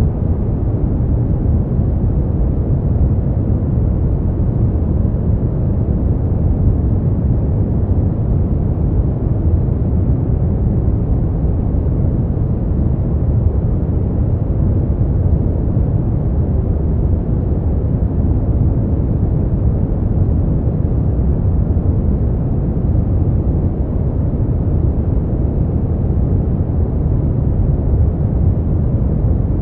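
Steady, unbroken noise of the kind played as 'white noise' for sleep, deep and muffled, with most of its weight in the low end and no hiss at the top.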